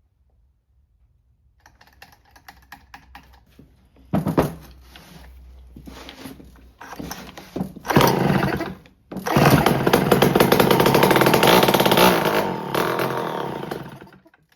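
Homelite C5 two-stroke chainsaw being pull-started on a shot of fuel poured down the carburetor: starter pulls, a couple of brief firings, then it runs for about five seconds and dies near the end.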